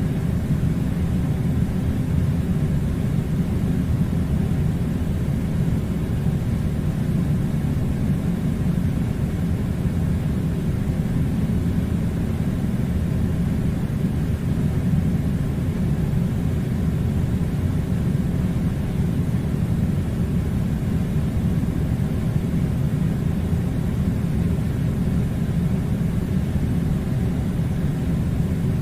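An air conditioner running with a steady low rumbling hum and a faint hiss of air, unchanging throughout.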